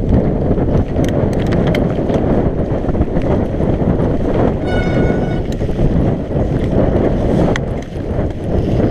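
Mountain bike ridden fast down a wet trail: heavy wind buffeting on the microphone over tyre and trail noise, with frequent rattling clicks from the bike. A brief high-pitched squeal about five seconds in.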